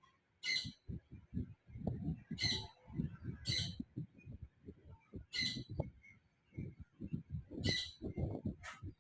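Barn owl giving short, harsh hissing screeches, six in all, a second or two apart. Low bumping and rumbling noise runs underneath.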